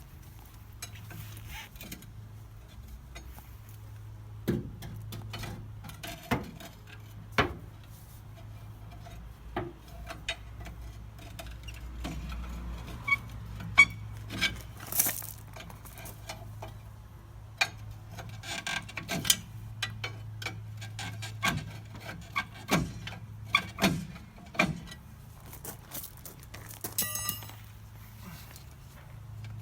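Irregular sharp knocks and clicks, some loud and some faint, scattered over a steady low hum.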